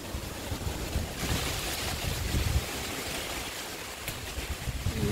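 Strong wind blowing through garden trees, leaves rustling in a hiss that swells about a second in, with gusts buffeting the microphone in uneven low thumps.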